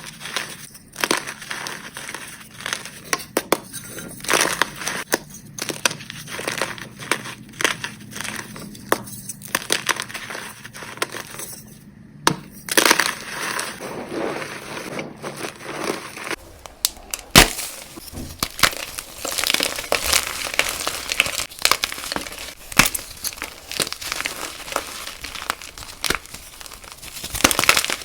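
Reformed gym chalk blocks being crushed: a steady run of irregular, crisp crunches. About two-thirds of the way through, the sound changes to brighter, denser crunching as a different batch of chalk is crushed.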